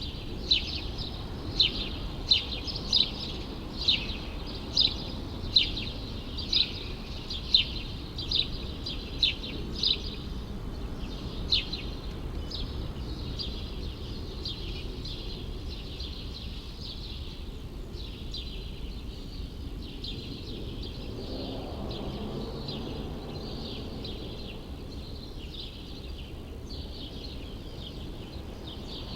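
A small bird chirping over and over, one or two short sharp chirps a second, loudest for the first dozen seconds and then fainter, over a steady low hum of city background noise.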